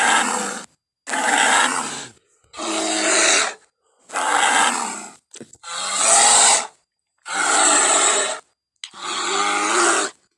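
Cave bear sound effects: a string of about seven separate bear roars and growls, each about a second long, some with a pitched tone in them, each cut off into silence before the next starts.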